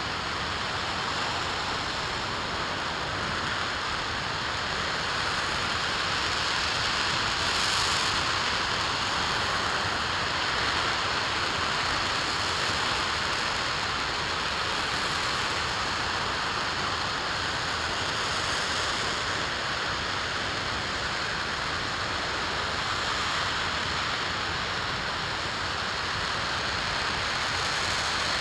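RS-25 liquid-hydrogen/liquid-oxygen rocket engine firing steadily on a test stand: an unbroken rushing noise at constant strength, with no change in thrust.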